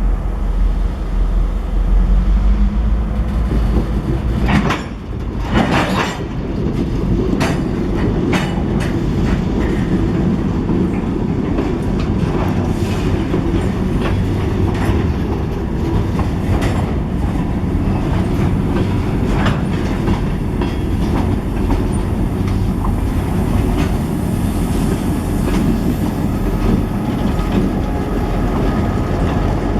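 A train rolling by with a steady rumble of wheels on rail and a run of clicks from the wheels crossing rail joints.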